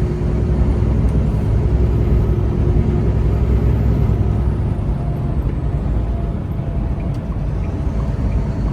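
Semi-truck engine and road noise heard from inside the cab while driving on the freeway: a steady, loud low rumble.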